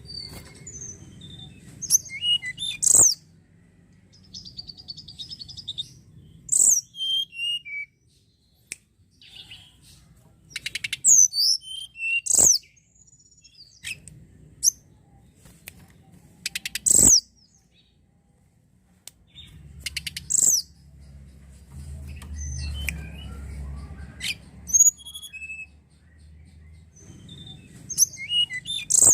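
Tledekan gunung, a small Indonesian songbird, singing in short bursts of high, bright whistled and chattering notes, with sharp, sudden loud notes and pauses of a second or two between phrases. A faint low rumble runs under the middle stretch.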